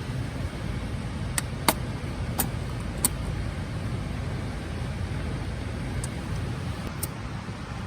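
Steady low rumble of a vehicle running, with a handful of sharp clicks scattered through it, the loudest about a second and a half in.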